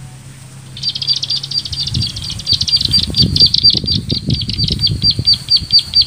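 A bird's call: a fast, even series of short high-pitched notes, about seven a second, starting about a second in and carrying on to the end. Irregular low thumps and rumble run underneath.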